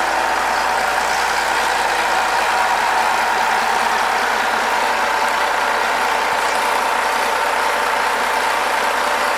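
Yanmar 6LAH-ST six-cylinder marine diesel engine running steadily, with an even, unbroken drone and a steady tone near the middle of the range.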